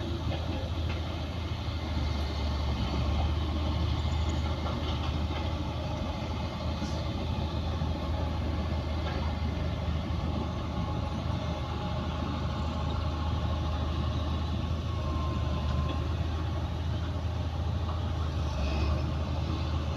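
Diesel engines of heavy earthmoving machinery running steadily, a continuous low engine note.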